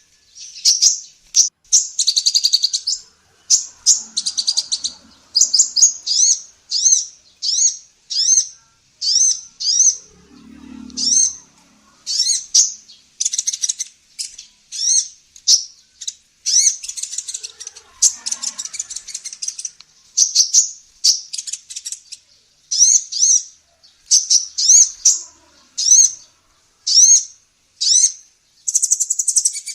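Female sunbird ('kolibri ninja') singing a fast, high-pitched song of repeated sharp chirps and short curved notes, delivered in quick bursts with brief pauses.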